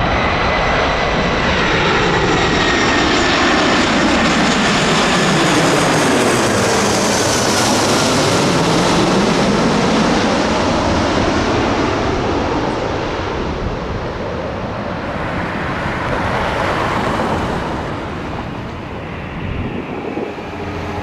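Airbus A340-300 jet airliner passing by, its engine noise loud and steady at first, with a sweeping, phasing whoosh as it goes past, then slowly fading.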